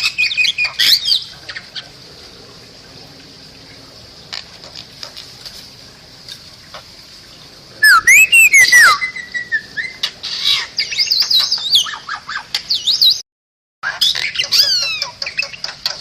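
Bali myna singing: sharp clicks, harsh squawks and fast whistled notes that swoop up and down, sparse in the first half and loud and dense from about halfway. The sound cuts out completely for about half a second near the end.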